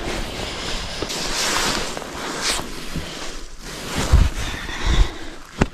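Rustling and shuffling as bedding and belongings are shifted about, with a few dull thumps near the end as things are set down.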